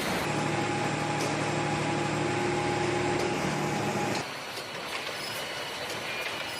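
Machinery running with a steady droning hum. About four seconds in, it cuts abruptly to a quieter, more even mechanical noise.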